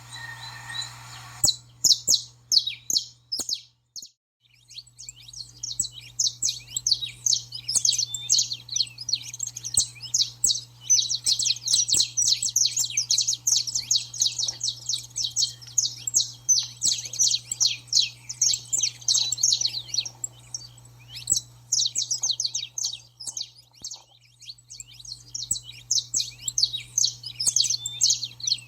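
Saffron finch chattering song: a fast, dense jumble of high, sharp notes that runs almost without a break, pauses briefly a few times and thins out for a couple of seconds past the middle.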